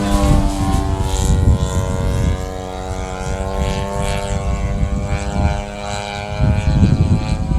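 Motor and propeller of a radio-controlled Ultimate biplane in flight, a steady pitched drone that dips at the start and then climbs slowly before fading out about six seconds in. Wind buffets the microphone throughout.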